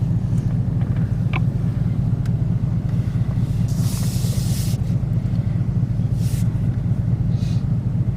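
Steady low rumble of a car driving slowly, heard from inside the cabin, with three short hisses about four, six and seven and a half seconds in.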